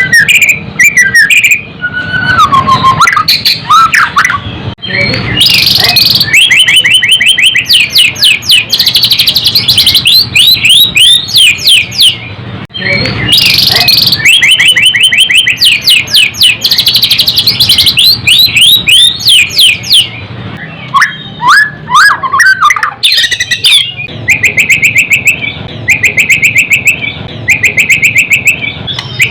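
White-rumped shama (murai batu) singing loudly in long runs of fast, rattling trills, with a few lower gliding whistles mixed in and only brief pauses between phrases.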